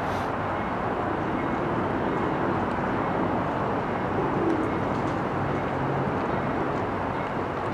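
Steady rumble of a rail yard with the low hum of idling diesel locomotives.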